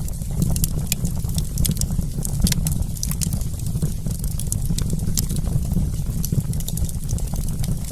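Wood campfire crackling: frequent short, sharp pops and snaps over a steady low rumble.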